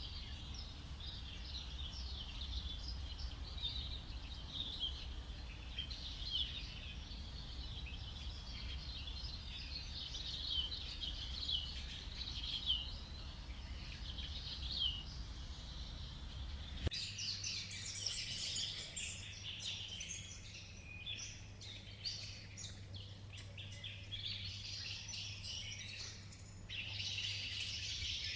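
Jungle ambience of many birds chirping and calling over a low rumble. About two-thirds of the way through it switches abruptly to a denser, higher chorus of chirps.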